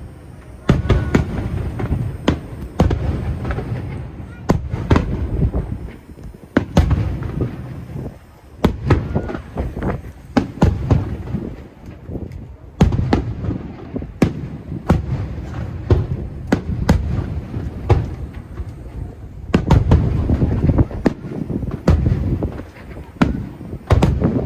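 Aerial fireworks shells bursting in quick succession: a steady barrage of sharp cracks and deep booms, many overlapping, with low rumbling between them.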